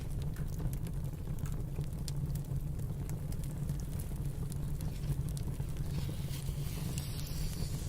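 Fireplace crackling with scattered small pops over a steady low rumble of snowstorm wind. A soft hiss swells briefly near the end.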